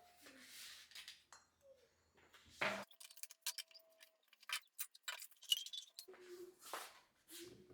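Kitchenware being handled and set down on a shelf: scattered light clicks and clinks, with one louder clink about a third of the way in that rings briefly.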